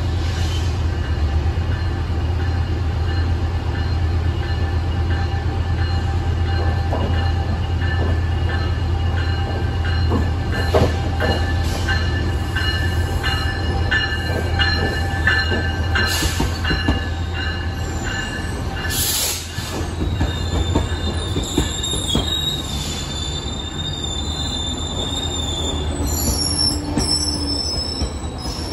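A Metrolink diesel locomotive slowly pulls a commuter train into the station, its engine running with a steady low drone, plus some clicks of wheels over rail joints. High-pitched wheel squeal comes in partway through. After the engine drone fades, the bilevel coaches roll past with higher-pitched squealing near the end.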